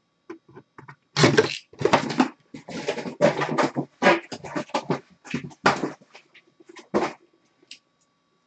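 Rustling and scraping of cardboard and wrapper packaging being handled and opened, in a run of short bursts with brief pauses.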